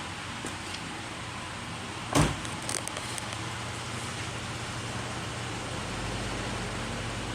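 A sharp knock about two seconds in, then a Subaru Forester's flat-four engine idling steadily, its low hum growing a little stronger near the end.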